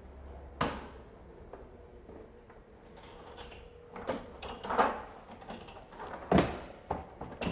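A few separate knocks and short rattles of objects being handled, the loudest about halfway through and again near the end.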